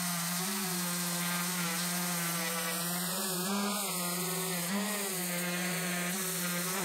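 Electric power sander running steadily, with a pitched motor hum, as it sands a wooden inlay flush with the surrounding board. It shuts off near the end.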